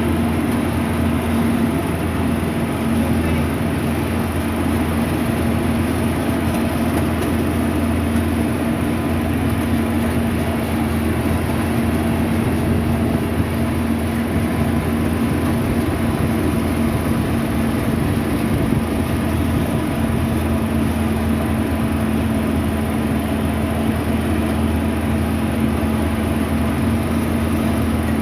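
Steady machine hum, a motor or engine running at an even speed with a constant low drone.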